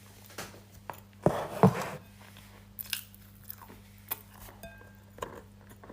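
Close-miked crunchy eating: one loud crackly bite and chew about a second in, then scattered small crunches and mouth clicks.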